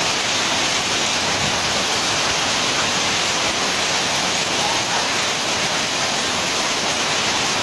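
Heavy rain mixed with small hailstones pelting down in a dense, steady hiss.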